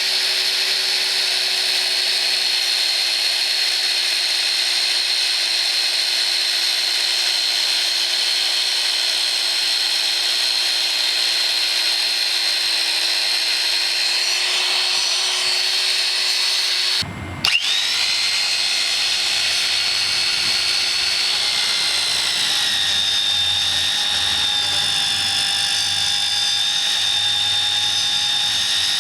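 Magnetic-base drill press motor running with a steady high whine. It breaks off for a moment about 17 seconds in, starts again, and its pitch drops slightly a few seconds later.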